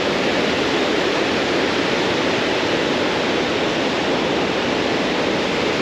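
Water rushing steadily over a roller dam, an even unbroken roar.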